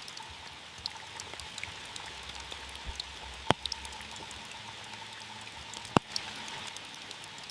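Heavy rain falling on a car, a steady hiss of rain dotted with the ticks of single drops. Two much louder drop hits stand out, about halfway through and about six seconds in.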